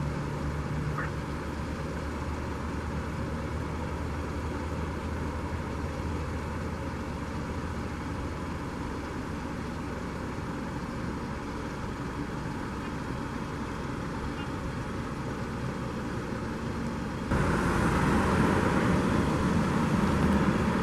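Steady vehicle engine and road noise, with a low hum in the first half; about 17 seconds in the noise suddenly gets louder and hissier.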